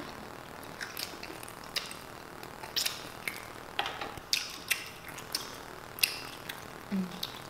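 Close-miked eating of steak burritos: irregular wet chewing clicks and crackles, a dozen or more scattered through the stretch.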